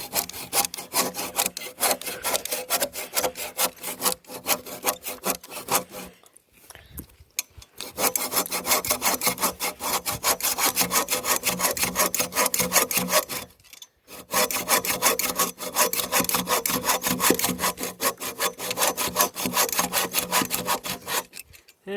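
Hand saw cutting through wood in rapid back-and-forth strokes, stopping briefly about six seconds in and again about fourteen seconds in before carrying on.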